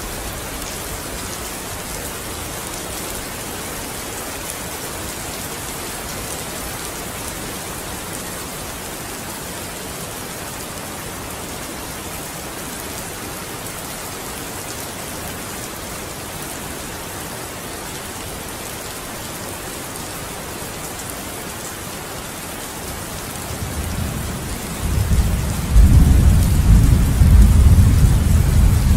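Steady rain falling on a window. Near the end, deep thunder rumbles in and grows loud, rolling on to the end.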